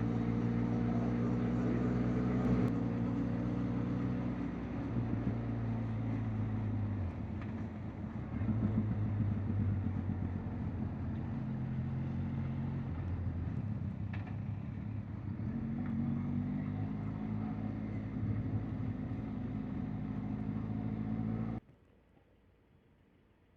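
An engine running steadily, its hum stepping up and down in pitch a few times, under a wash of noise; it cuts off abruptly near the end, leaving a faint hiss.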